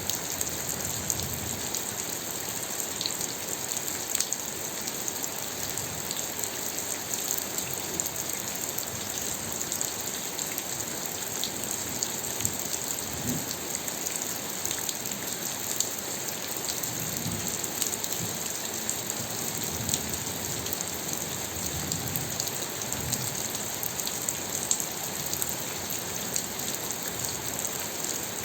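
Steady rain: an even hiss full of small drop ticks, with a few short low rumbles now and then.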